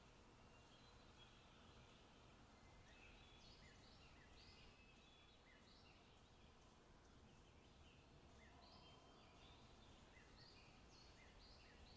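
Faint forest ambience: several small songbirds giving short, repeated chirps and whistled notes, scattered throughout, over a low steady background hush.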